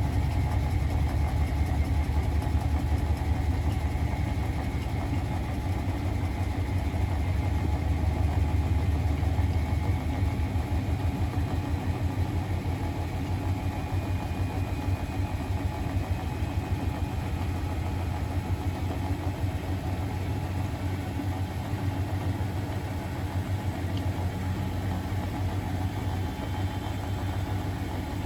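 Miele Novotronic W921 front-loading washing machine running, a steady low hum with a fast, even pulse from the turning drum and a faint motor whine above it.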